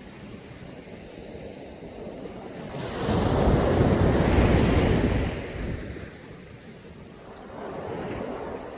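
Caribbean sea waves washing onto a beach: one big surge about three seconds in that lasts about two seconds, then a smaller wash near the end, over a steady hiss of surf.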